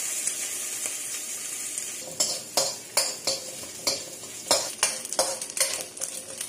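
Dried anchovies sizzling in hot oil in a wok with a steady hiss; from about two seconds in, a steel ladle stirs them, scraping and knocking against the wok about twice a second.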